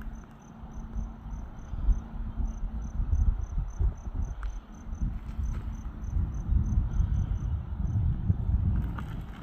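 Insect chirping in a steady high-pitched pulse, about three to four chirps a second, over a louder, irregular low rumble of wind on the microphone.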